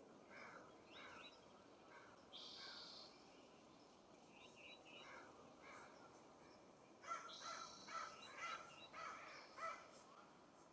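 California scrub-jay calls: a quick run of about five loud calls starting about seven seconds in, with fainter short bird calls scattered before them.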